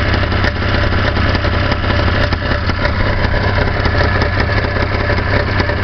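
1978 Ski-Doo Blizzard 6500 snowmobile's two-stroke engine idling steadily, with a fast, even firing pulse.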